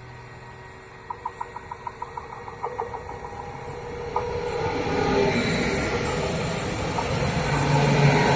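Train approaching on the line: a quick run of clicks, about five a second, is followed by a rising rumble and rush that grows louder toward the end as the train draws near.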